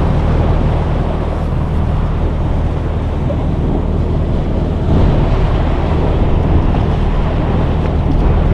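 Small boat's motor running steadily at idle, a constant low hum, with wind rushing on the microphone.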